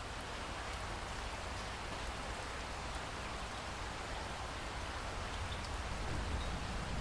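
Steady rain falling, a dense even hiss of drops that grows slightly louder.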